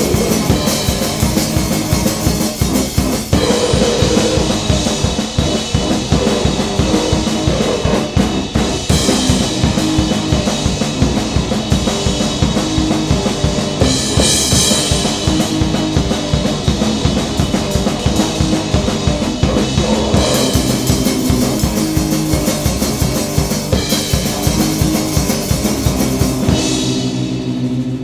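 A grindcore/noise band playing a fast, raw track: rapid pounding drum kit under a dense wall of noisy sound. It fades out near the end.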